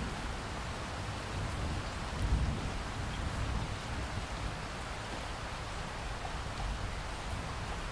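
Steady rain falling as an even hiss, with a low rumble underneath that swells briefly about two and a half seconds in.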